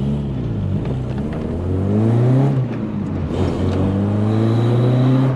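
VW Polo coupe's freshly rebuilt engine accelerating, its note rising, dropping briefly about two and a half seconds in as a gear is changed, then rising again.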